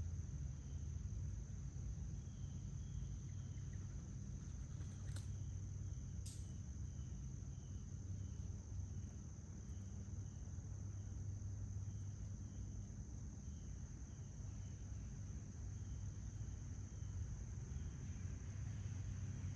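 Outdoor insects calling: a steady high trill throughout, with faint short chirps repeating in small groups, over a low steady rumble. Two sharp clicks come about 5 and 6 seconds in.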